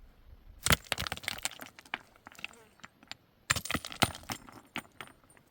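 Hard objects clattering: two bursts of quick, sharp clicks and knocks.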